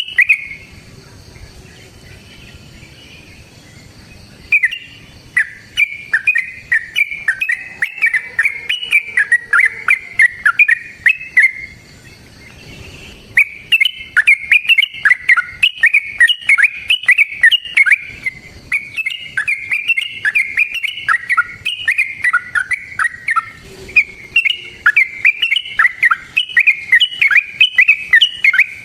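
Yellow-vented bulbul (trucukan) singing long runs of rapid, bubbly chattering phrases. It starts after about four quieter seconds, pauses briefly midway, then sings almost without a break.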